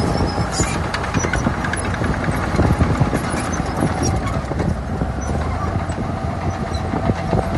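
Heavy diesel earthmoving machinery running steadily, a low engine rumble with continuous rattling and clanking.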